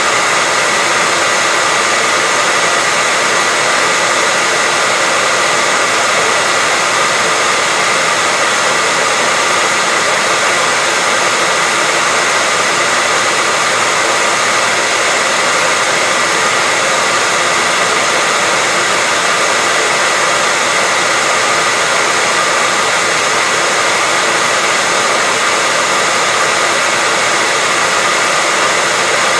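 Hair dryer running steadily: a constant blowing hiss with a faint high whine from its fan motor.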